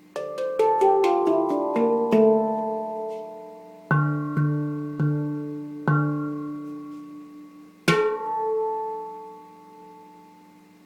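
Yishama Mystic 9 handpan, a steel hand-played pan tuned to D minor, freshly reglued and retuned: a quick run of about nine ringing notes, then four slower strokes on the low notes and a last accented stroke that rings out and fades away.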